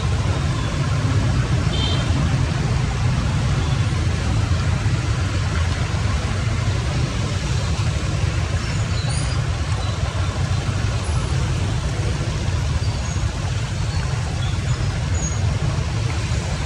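Steady rush of floodwater draining, a continuous heavy low rumble without let-up.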